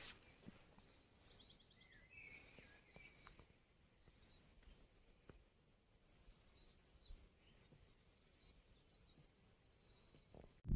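Faint birdsong in woodland: small birds chirping, with a few short rapid trills, one near the start and one near the end.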